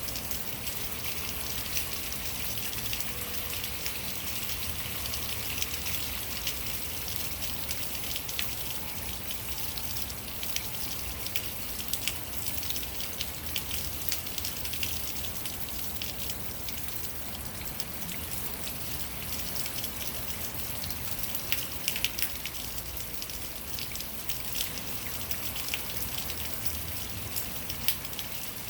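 Rainwater spilling chaotically down a rain chain: a steady patter and splash of water, dotted with many sharp individual drips.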